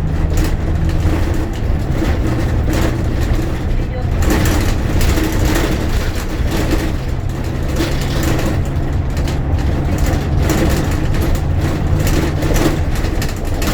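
Bus engine running under way, heard from inside the passenger cabin, its low note shifting about a second in and again around seven seconds in, with rattles from the cabin.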